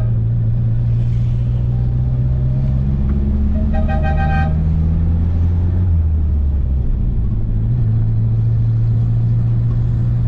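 Renault 4 van's engine running as it drives off, heard from inside the cab, its note changing pitch a few times through the gear changes. A car horn toots once, briefly, about four seconds in.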